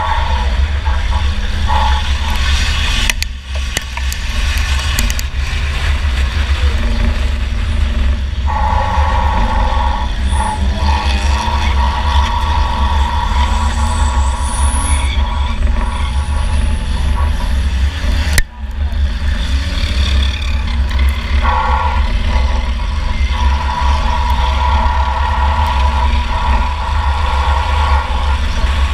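2004 Chevy Impala's engine running hard, heard from inside the car, with a heavy low rumble throughout. The level dips sharply for a moment twice, about three seconds in and again past the middle.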